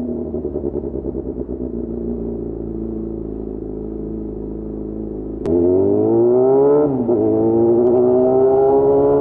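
Yamaha FZ6's inline-four engine running steadily at low revs, then about five and a half seconds in the throttle opens and it revs up, dipping briefly at a gear change a second later and pulling up again.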